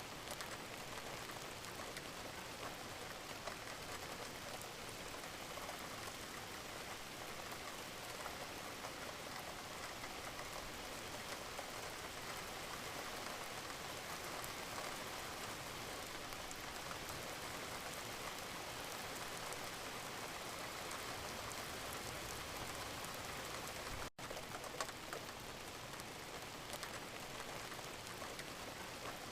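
Steady, gentle rain falling, with a dense patter of individual drops. The sound cuts out for an instant about three quarters of the way through, then carries on unchanged.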